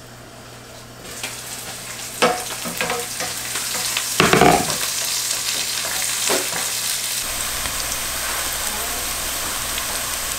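Onions sizzling as they fry in oil in a deep pan, with a few clanks and scrapes of a utensil stirring them. The loudest clatter comes about four seconds in. The sizzle builds from about a second in and then holds steady.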